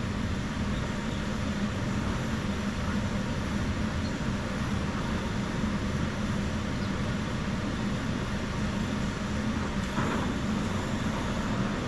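Gas torch flame hissing steadily while it heats the head of a rusted exhaust manifold bolt red-hot, so the bolt expands and loosens without snapping.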